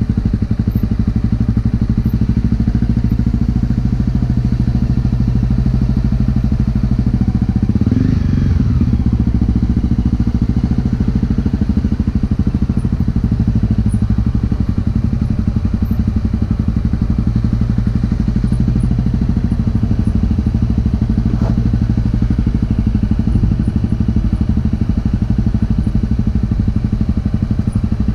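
Honda CRF250L's single-cylinder four-stroke engine running steadily through a Yoshimura exhaust, with a brief change in engine note about eight seconds in and a single short, sharp click about two-thirds of the way through.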